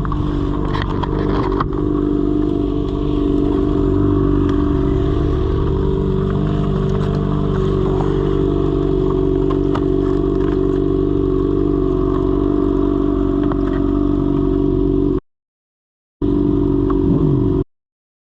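Motorcycle engine running at a steady speed, with some clatter. The sound cuts out twice, briefly, near the end.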